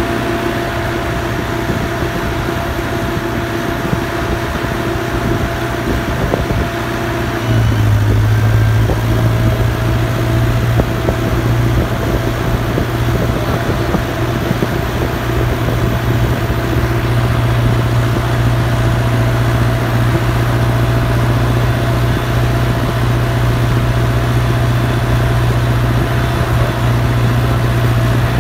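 Massey Ferguson 5430 tractor's turbocharged Perkins diesel engine running steadily while hauling a heavy load of about 12 tons. About seven seconds in it becomes louder and deeper and holds there.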